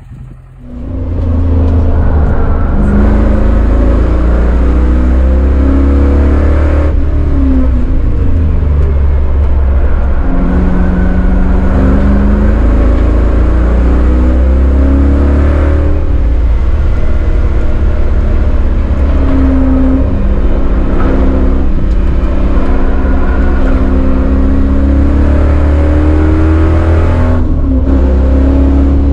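Chevrolet Caprice's LT1 V8, driving through a T56 six-speed manual, heard from inside the cabin under hard acceleration on a road course. It is loud throughout, climbing in pitch and dropping back several times.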